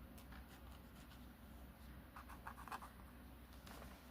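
Faint scratching of a pen on paper, with a few quick strokes a little past the middle: scribbling to get a slow pen's ink to flow.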